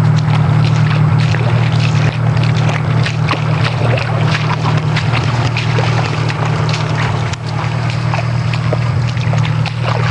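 Four-wheel-drive engine idling steadily in a low hum, with scattered splashes and sloshing of someone wading through shallow muddy water.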